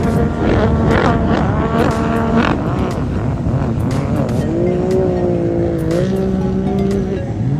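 Racing powerboat engines running hard, their pitch wavering and shifting up and down.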